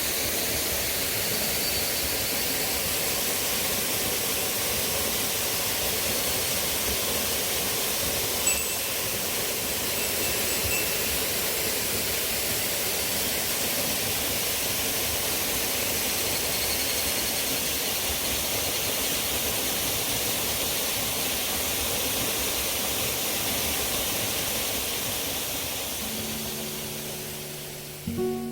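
Steady rushing of a waterfall, the water falling onto rock and pool. Near the end it fades out as acoustic guitar music comes in.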